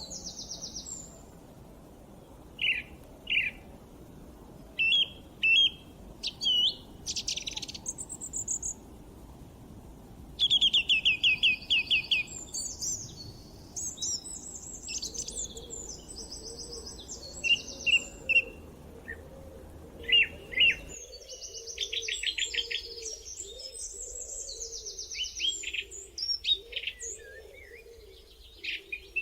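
Several songbirds singing in a forest chorus, overlapping chirps and rapid trills. Under them a soft low hiss cuts off abruptly about two-thirds of the way through.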